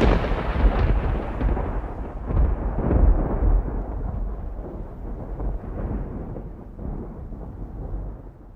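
A loud, deep rumbling boom that fades away unevenly over several seconds.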